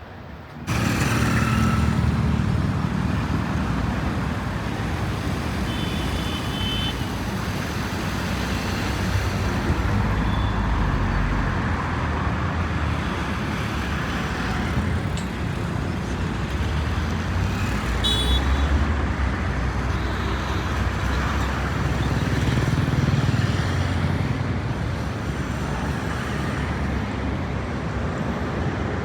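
Jet airliner engines running, heard as a loud, steady rushing noise with a deep low rumble that starts abruptly just under a second in. It swells and eases slightly a few times, and a couple of brief high whistling tones come through over it.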